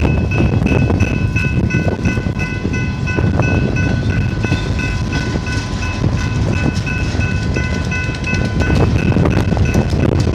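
Freight work train's flatcars rolling past: a steady low rumble of steel wheels on the rails, with sharper clicks toward the end. A grade-crossing bell rings over it in a quick, even repeat.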